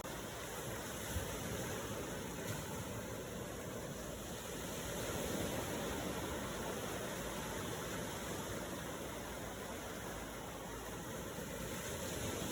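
Ocean waves: a steady rush of surf that swells gently in loudness around the middle.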